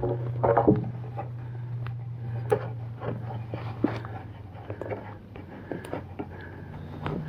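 A small engine running steadily with a low hum, under scattered light knocks and clicks.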